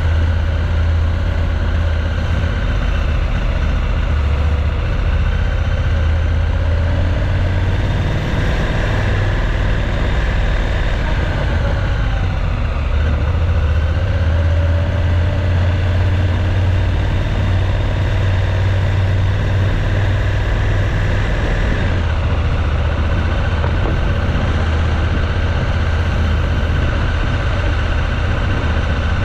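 Motorcycle engine running steadily; its pitch dips and then rises again between about 8 and 16 seconds in.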